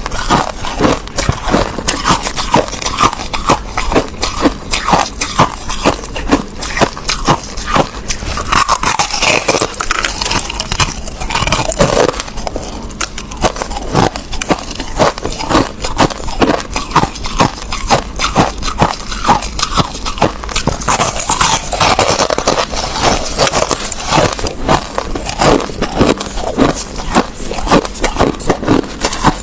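Crushed ice being bitten and chewed close to the microphone: a dense, continuous run of sharp, crackly crunches.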